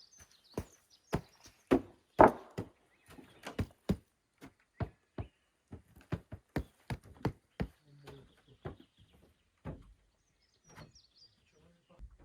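Irregular series of sharp knocks and taps, about two a second, the loudest about two seconds in, thinning out near the end.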